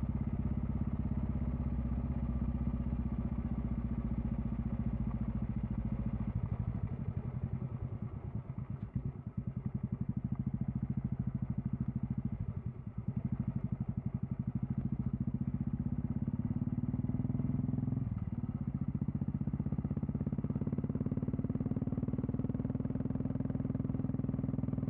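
Royal Enfield Classic 350's single-cylinder engine running under way through a Red Rooster aftermarket exhaust, with a steady pulsing beat. The engine note dips briefly a few times, as the throttle eases off.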